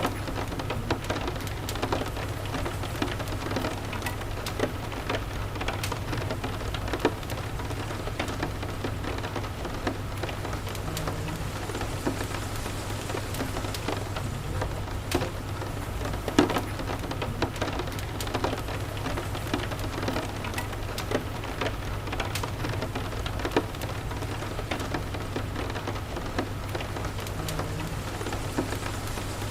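Steady rain falling, with many scattered sharp ticks and pops, one louder pop about halfway through, over a constant low rumble.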